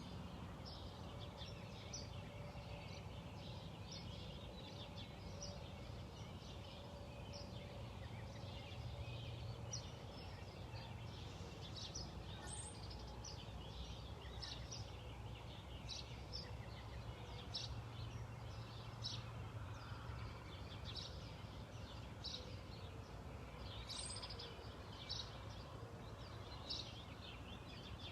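Small birds chirping: many short, high chirps scattered throughout, over a steady low rumble of background noise.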